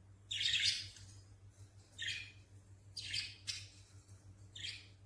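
Caged pet birds chirping: five short, high calls, the first and loudest about a third of a second in.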